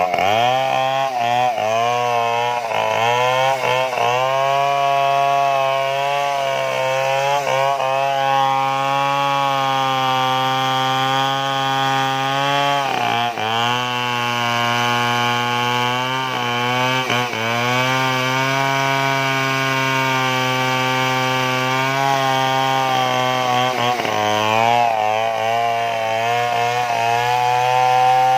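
Stihl chainsaw cutting through a large tree trunk, its engine held at high revs, the pitch sagging briefly under load several times and recovering.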